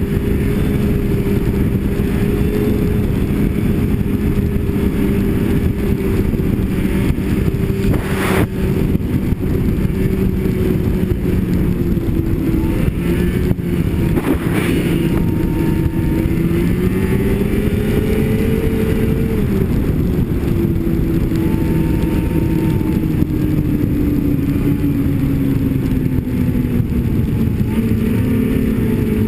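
Snowmobile engine running at a steady cruise, its pitch rising briefly about two-thirds of the way through and then easing down gradually. Two sharp knocks are heard, about 8 and 14 seconds in.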